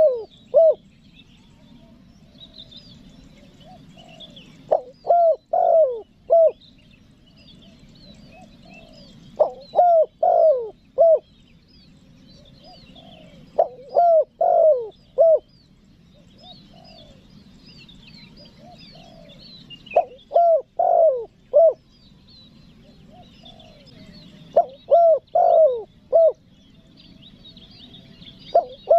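Spotted dove (tekukur) cooing in its calling song: phrases of four or five coos repeated about every four to five seconds, the kind of call used to lure wild doves. Other small birds chirp faintly in the background.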